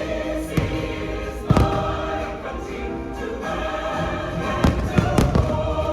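Choral orchestral music of a fireworks show soundtrack, with fireworks bursting over it in several sharp bangs. The loudest bang is about a second and a half in, and a quick cluster comes near the end.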